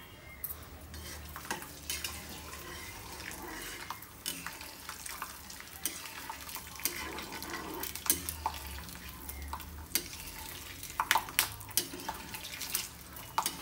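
Peanuts sizzling as they fry in hot oil in a wok, while a metal spatula stirs them and scrapes and clinks against the pan again and again.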